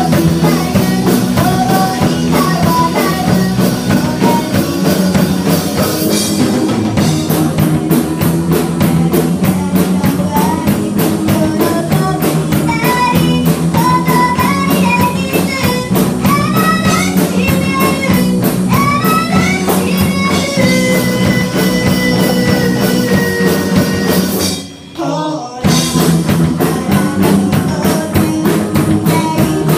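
Live rock band playing: electric guitar, bass and drum kit with a sung vocal line. Near the end the whole band stops dead for about a second, then comes back in.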